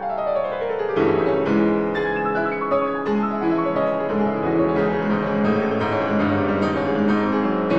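Background piano music: a quick falling run of notes ends about a second in, then a calm melody over steady lower notes.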